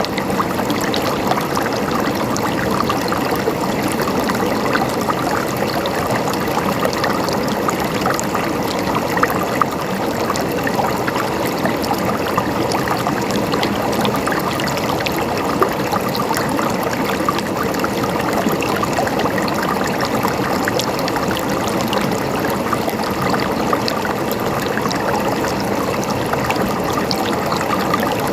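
River water flowing steadily, a continuous rush and trickle with many small splashes and gurgles over it.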